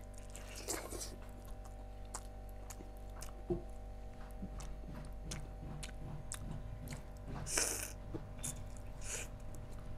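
A person chewing a mouthful of rice and chicken curry, with small wet smacks and clicks picked up close by a clip-on microphone. A short hiss comes about seven and a half seconds in.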